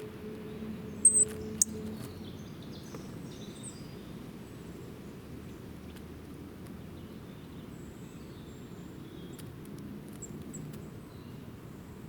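Small birds chirping and twittering faintly over a steady outdoor background hiss, with two sharp, loud sounds about a second in.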